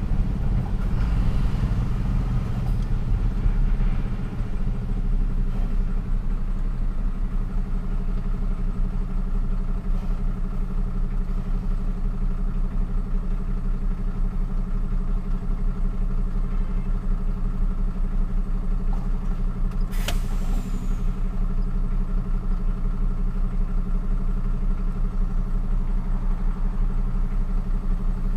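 Truck's diesel engine running at a steady pitch, a low drone. One sharp click about twenty seconds in.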